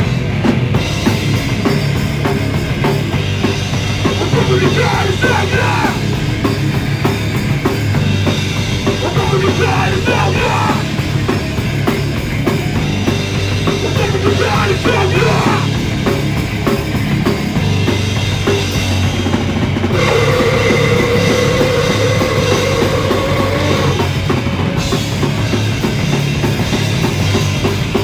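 Underground rock/metal band playing live, heard through a phone's microphone: distorted guitars, bass and a busy drum kit at full volume. About twenty seconds in, a guitar holds a sustained note for a few seconds.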